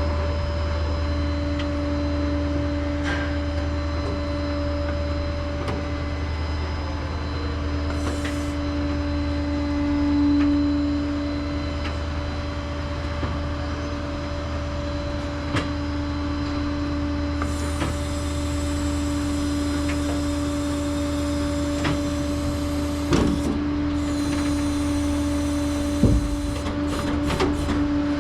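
Flatbed tow truck running with a steady low hum and a constant whine, with a few short clicks and knocks near the end.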